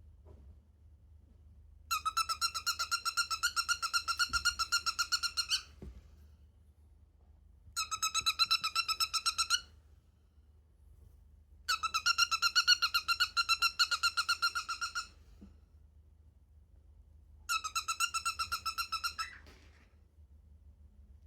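Cockatiel making rapid runs of squeaky, creaking calls, like an unoiled hinge, in four bouts of a few seconds each with short pauses between.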